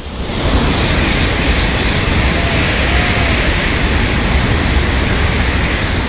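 Shinkansen bullet train passing through a station at high speed: a loud rush of air and rolling rumble that builds in the first half second, holds steady, and begins to fade near the end.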